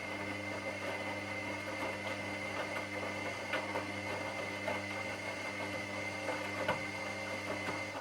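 Washing machine motor turning the drum with a steady hum and a high whine, with scattered clicks and rattles. It cuts off abruptly at the end.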